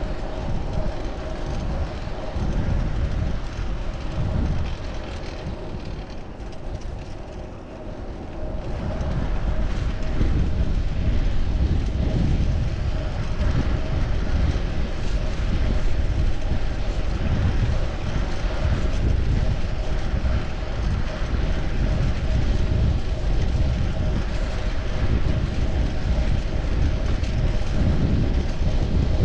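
Wind rumbling over a chest-mounted action camera's microphone while riding a fixed-gear bicycle, mixed with tyre and road noise. It eases a little in the first few seconds, then grows louder from about nine seconds in and stays steady.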